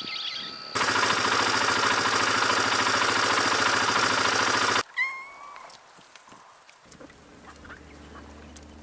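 Farm waterfowl calling loudly, a dense clamour that starts and stops abruptly over about four seconds, followed by one short pitched call.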